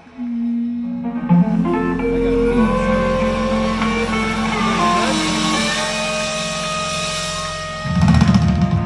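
Live band playing the instrumental close of a song: sustained guitar notes and chords over drums with ringing cymbals, and heavier drum hits near the end.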